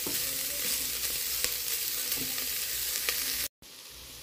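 Bacon, calabresa sausage, onion and garlic sizzling as they sauté in the oil of a pressure cooker pan: a steady frying hiss with a few faint crackles. The sound cuts off abruptly about three and a half seconds in and comes back quieter.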